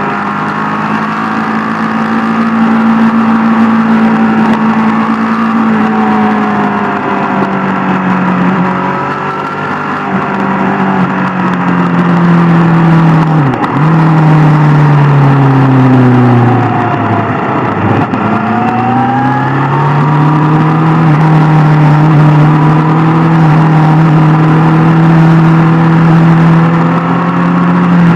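Superbike's inline-four engine running at a steady cruise. Its note falls twice in the middle as the bike slows, then rises again and holds steady.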